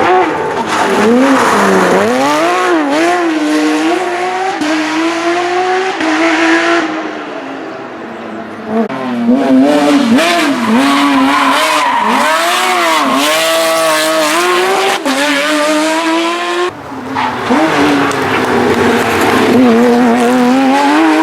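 Porsche GT3's flat-six engine at full rally pace, revving hard and dropping again and again through gear changes and throttle lifts. There is a brief easing off partway through.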